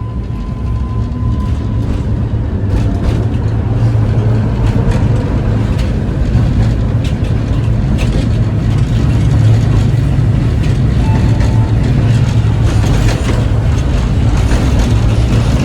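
Electric tram running along its rails, heard from inside: a loud, steady low rumble with a faint high whine that comes and goes and scattered clicks and rattles.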